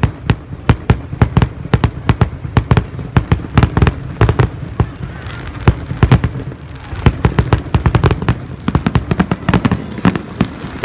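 Fireworks display going off in a rapid, irregular barrage of loud bangs and cracks, several a second, easing briefly about six seconds in before picking up again.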